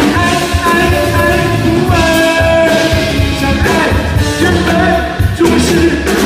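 A band playing a pop-rock song, with a singer holding long notes over a steady beat.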